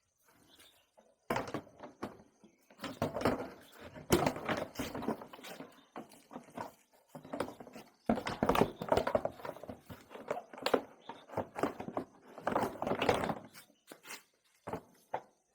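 Irregular knocks, clatter and scraping, as of parts and hand tools being handled on metal, in clusters separated by short pauses.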